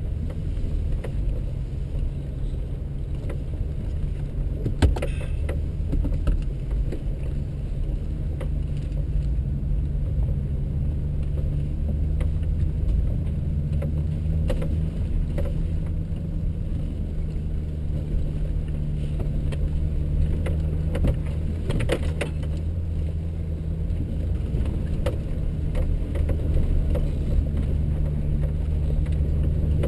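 4x4's engine running at low speed, a steady low drone heard inside the cabin as it crawls along a rocky dirt trail, with a few sharp knocks and rattles from the body and suspension, around 5 and 22 seconds in.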